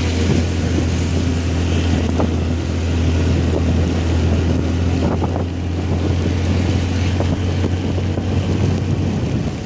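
Motor scooter engine running steadily while riding, with wind buffeting the microphone.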